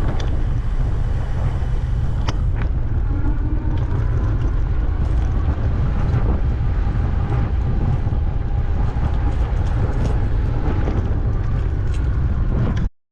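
Wind buffeting the microphone as a bicycle rides along, a steady low rumble with a few faint clicks; it cuts off suddenly near the end.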